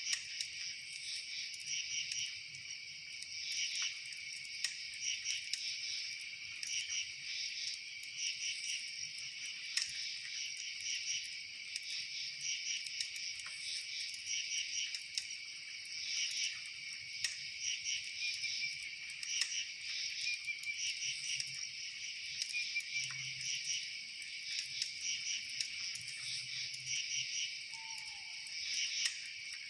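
A steady chorus of insects chirping in fast pulsed trills, with a few faint scattered clicks and one short falling note near the end.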